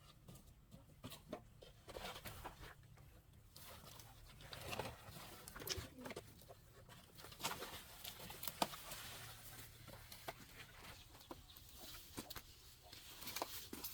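Faint bird calls in the background, among scattered light clicks and knocks.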